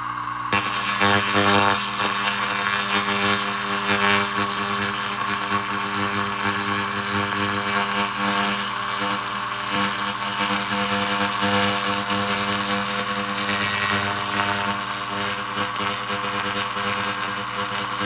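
SFX 2000 W handheld laser rust remover cleaning metal: a steady buzzing tone over a dense crackling hiss, starting about half a second in.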